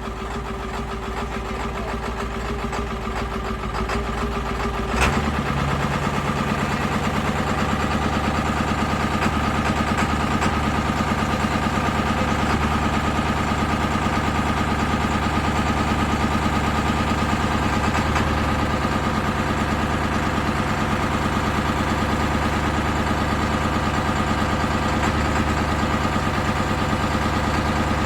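7.3-litre diesel V8 idling just after a hard winter cold start, still running crabby. About five seconds in there is a sharp clack, and after it the engine's tone shifts and settles into a steady idle.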